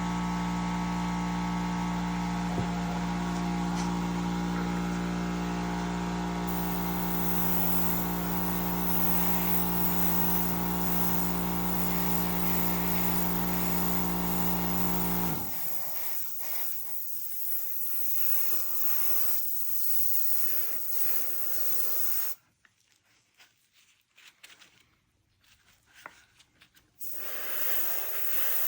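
Small airbrush compressor running with a steady hum that cuts off about fifteen seconds in. Hissing spray of air follows, stops for a few seconds, then starts again near the end.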